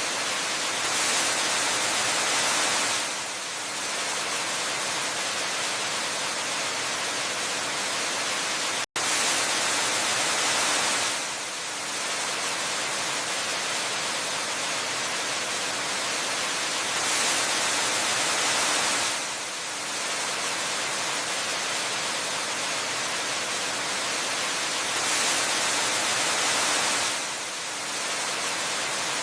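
Waterfall ambience: a steady rushing hiss of falling water that swells slightly about every eight seconds, with a split-second dropout about nine seconds in.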